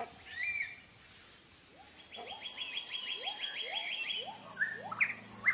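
Several forest birds calling. A fast, even trill of short high notes starts about two seconds in over a run of short rising whistles, and a few louder upward-sweeping calls come near the end.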